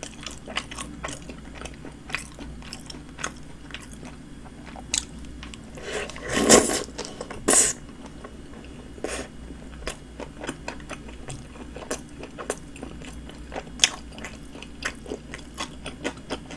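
Close-miked chewing of a soft flatbread sandwich with ham, full of small wet mouth clicks and smacks. A few louder mouth noises stand out, the biggest about six and a half seconds in.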